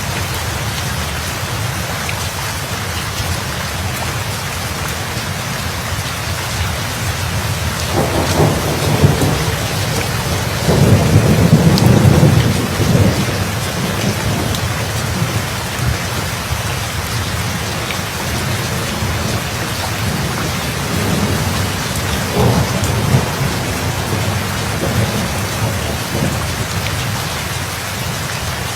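Steady rain falling, with a low rolling thunder rumble that builds about eight seconds in, peaks a few seconds later and fades. A weaker rumble of thunder comes a little past two-thirds of the way through.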